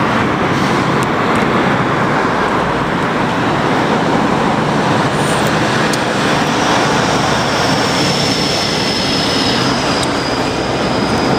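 Steady, loud rumbling roar of heavy vehicles passing close by. A faint, thin high squeal joins about six seconds in and holds on.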